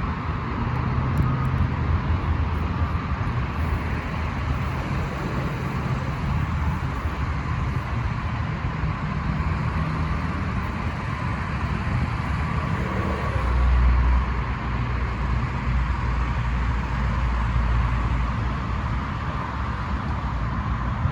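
A Ford 6.7L Power Stroke V8 turbo diesel running steadily with a low rumble. A deeper, stronger rumble comes in about thirteen seconds in and holds for several seconds.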